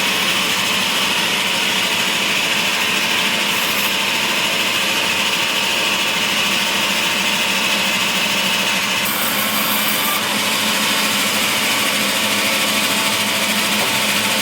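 Woodworking power machine running steadily: a continuous loud, high-pitched machine noise with no breaks.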